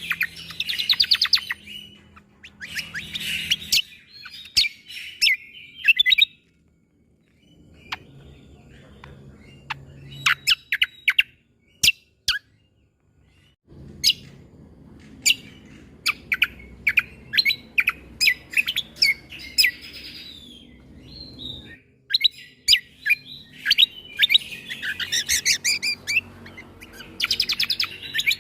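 Cucak kombo songbird singing a masteran song of sharp, shot-like chirps and quick trilled runs, fired off in bursts with brief pauses. A faint low hum runs underneath.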